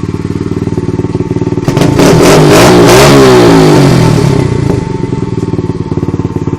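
125 cc dirt bike engine idling, revved once about two seconds in, then dropping back to idle.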